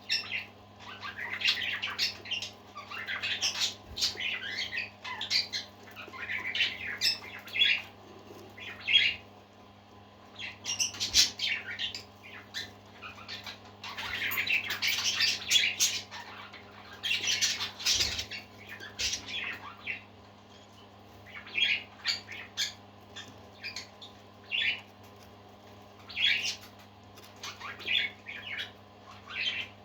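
Parakeets chirping and squawking in irregular bursts, busier in the first two-thirds and sparser near the end, over a steady low hum.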